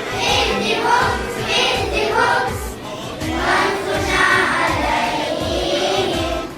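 A song with a group of voices singing over a steady beat, starting to fade out near the end.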